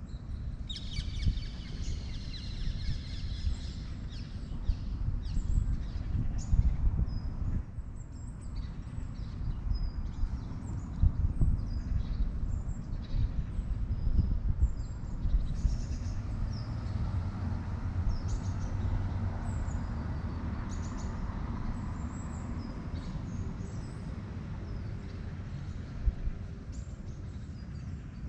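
Small birds chirping again and again in short high calls over a steady low rumble of outdoor ambience. The rumble grows fuller for several seconds past the middle, then settles back.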